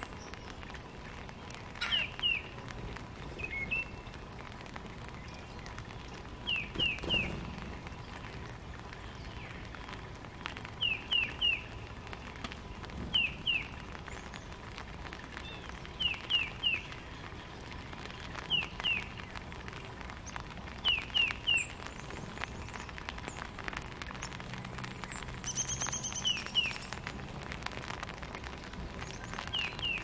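Wild songbirds calling: short chirps in quick groups of two or three, repeated every couple of seconds, with a longer, higher, wavering call near the end. Faint scattered ticks run underneath.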